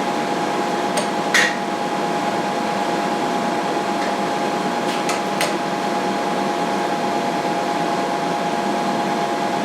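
Milling machine running with its spindle turning an end mill through a light cut in steel, a steady hum with a constant whine. A few short clicks about a second and a half in and again around five seconds.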